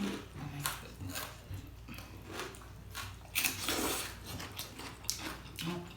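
People chewing food close to the microphone, with irregular small clicks and crunches; a louder, longer crunching stretch comes about three and a half seconds in.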